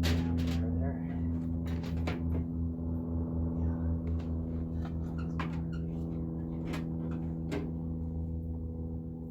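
Scattered sharp clicks and metallic knocks of wire cutters and hands working the wiring and metal parts of a microwave oven being stripped for scrap, over a steady low hum.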